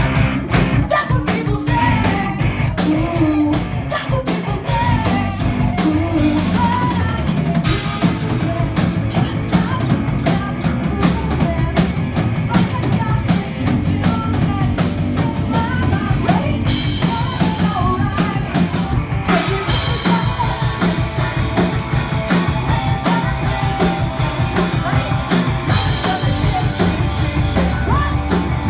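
Metal band playing live: rapid drum-kit hits with pounding bass drum under distorted guitars and bass, with some vocals.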